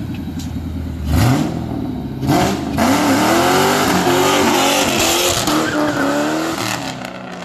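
Car engine revved hard and accelerating: a sharp rise in engine pitch about a second in, then louder running with the pitch climbing and dropping again and again, as through hard pulls or gear changes, with a hissing wash over it.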